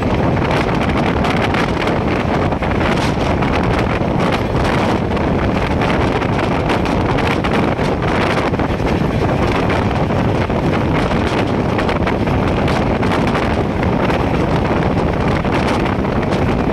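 Express passenger train running at speed, with wind rushing and buffeting over the microphone as a loud, steady noise.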